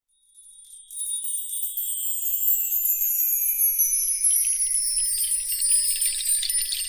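High, shimmering jingle of small bells, fading in over the first second and gliding slowly downward in pitch.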